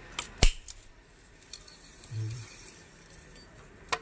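Sharp metallic knock about half a second in and another near the end, with a few faint clinks between: tools and engine parts being handled during scooter engine dismantling.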